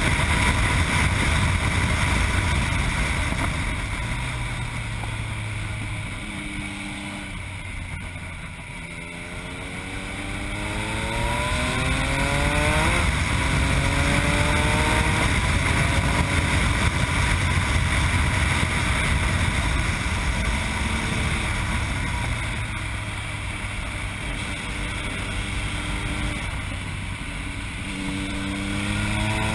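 Yamaha MT-09's three-cylinder engine through an Akrapovic exhaust, heard onboard while riding. It eases off, then revs rise steadily, drop at an upshift about halfway through and climb again. After a quieter stretch the revs rise once more near the end.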